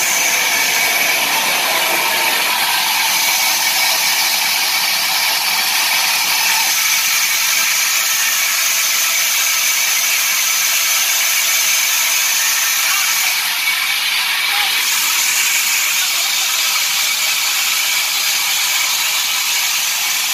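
Sawmill wood-cutting saw running, a steady loud hiss with a faint high whine that holds throughout.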